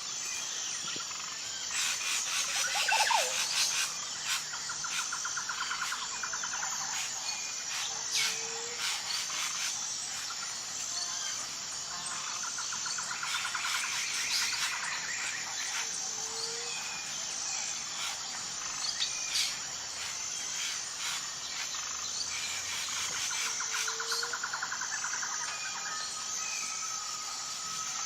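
Natural chorus of insects and birds: a steady, high, pulsing insect drone under scattered bird chirps and trills, with a short low rising call repeating about every eight seconds.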